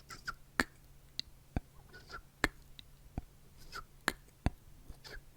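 Close-miked sharp clicks and taps at an irregular pace, roughly one or two a second, with fainter, softer clicks in between, played as ASMR triggers.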